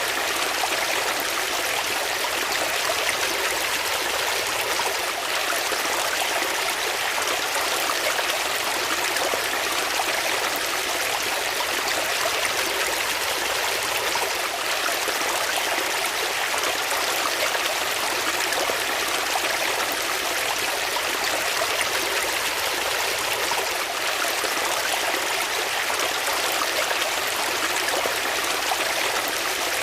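Water flowing steadily, a continuous even rush and splash like a stream.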